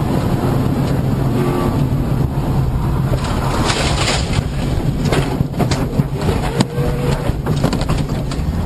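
A car engine running steadily under road noise, with scattered sharp clicks and knocks, more of them in the second half.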